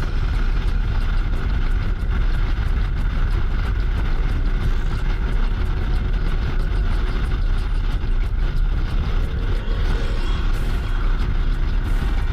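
Motorcycle running steadily along the road, recorded by a camera mounted on the bike, with a loud, unbroken rumble of wind and road noise.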